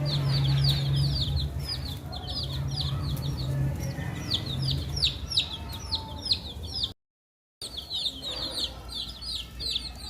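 Baby chicks peeping continuously: rapid, high, downward-sliding chirps, several a second, from more than one chick. The sound drops out completely for about half a second around seven seconds in.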